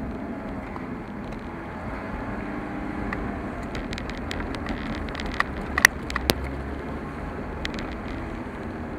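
Car driving along a road: steady engine and road noise, with a few sharp clicks or knocks a little past the middle.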